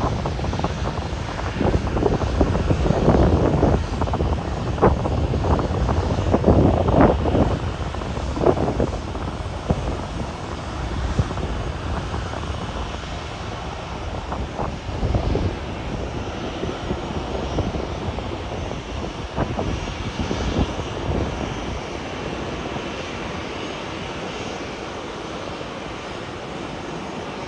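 Airliner's jet engines running as the plane passes: a rough, crackling rumble, loudest for the first several seconds, then fading to a lower, steady rumble.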